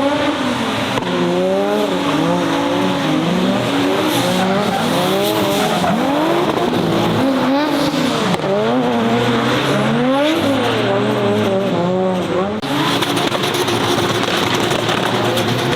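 Turbocharged Toyota 2JZ straight-six in a drifting Nissan Silvia S15, revving up and down again and again with tyres squealing and skidding. From about two-thirds in the revs hold steadier for a couple of seconds before rising and falling again.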